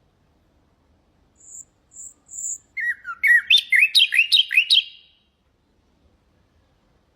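Nightingale singing one phrase: three soft, very high notes, then a fast run of about ten loud downslurred notes lasting about two seconds.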